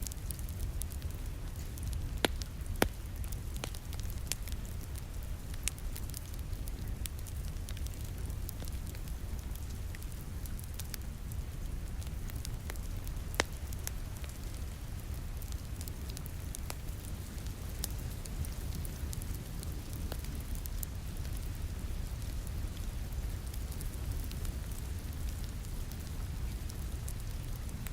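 Wood fire crackling in a fireplace, with scattered sharp pops, over the steady hiss of rain and a low rumble. The loudest pops come about two and three seconds in and again around thirteen seconds.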